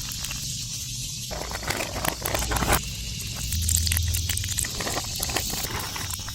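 Campfire cooking: steady hissing with many short, sharp crackles throughout.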